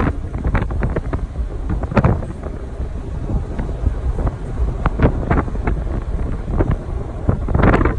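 Wind buffeting the microphone over the steady low rumble of an Audi R8 V10 on the move, with irregular gusty thumps.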